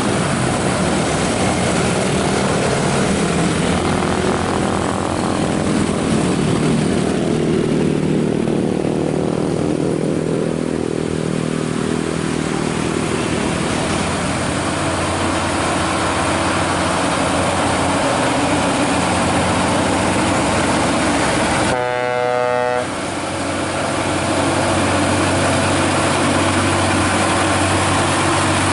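Heavy truck engines running loudly under load, their pitch shifting in the first half. About three-quarters of the way through, a short horn blast sounds.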